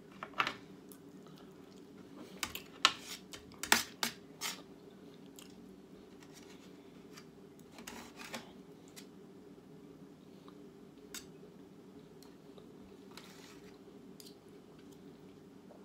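A person chewing food close to the microphone, with several sharp clicks, loudest about three to four seconds in, then quieter chewing over a steady low hum.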